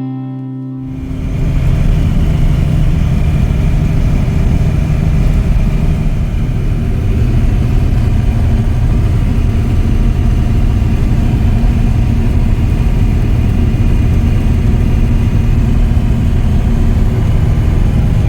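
A Peterbilt 359 truck's Cummins diesel engine running steadily. Guitar music cuts off under a second in, just before the engine comes up.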